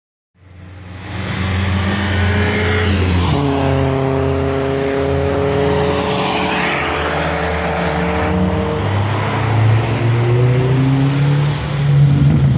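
BMW M3 E30's four-cylinder engine running hard around a racetrack. There is a gear change about three seconds in, then the pitch sinks slowly and climbs again near the end under acceleration.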